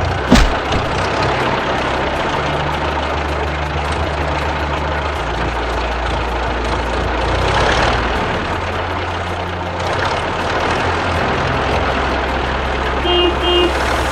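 Heavy vehicle engine running steadily, with a sharp knock just after the start and a brief double beep near the end.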